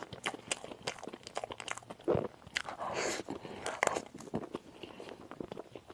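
Close-up chewing and biting of crisp food, a run of sharp crackling crunches with a few louder bites about two and three seconds in.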